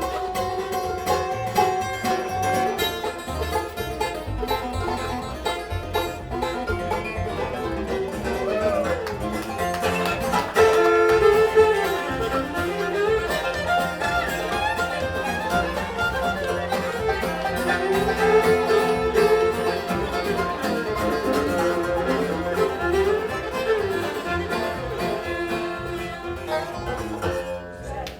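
Bluegrass band playing an instrumental break with banjo, guitar and fiddle and no singing. From about ten seconds in, a lead line with sliding notes comes to the fore, most likely the fiddle.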